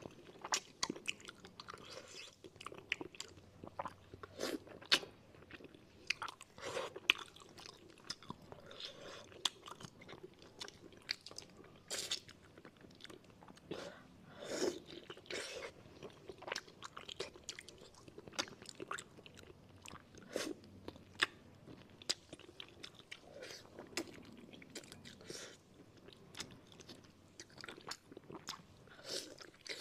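Close-miked eating of braised fish pieces with their fins on: wet, irregular chewing and smacking, with crunchy bites and sharp mouth clicks, a few much louder than the rest.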